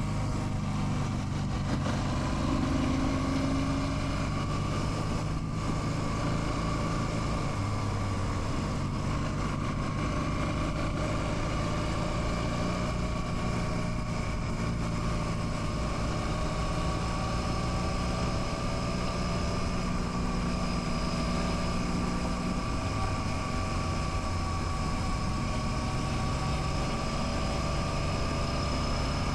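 Royal Enfield Classic 650's 648 cc parallel-twin engine running steadily, with road and wind noise; its note rises slightly in the second half.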